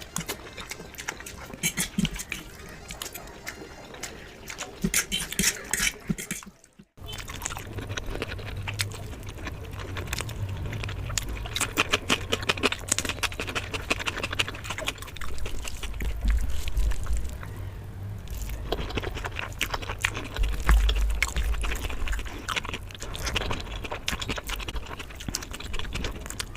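Close-miked eating sounds: wet chewing and mouth smacks as a series of quick clicks and crackles, broken by a short silent gap about seven seconds in, with a low hum under the later part.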